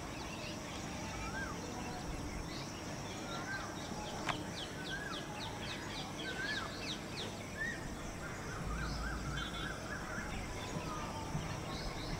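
Small birds calling over steady outdoor background noise: a short rising-and-falling chirp repeated every second or two, a quick run of high notes in the middle, and a brief trill about nine seconds in. A single sharp click about four seconds in.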